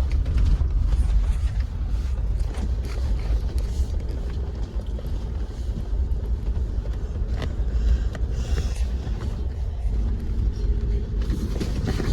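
A Jeep driving slowly over a rough, rocky dirt trail: a steady low rumble of engine and tyres, with scattered knocks and rattles as it jolts over the bumps.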